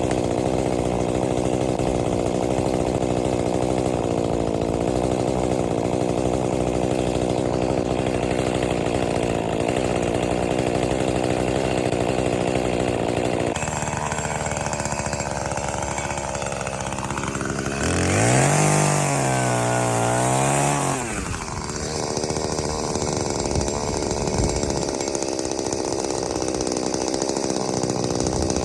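Two-stroke chainsaw engine running steadily. About two-thirds of the way through it is throttled up, its pitch rising quickly and holding high for a few seconds before dropping back to a lower steady run.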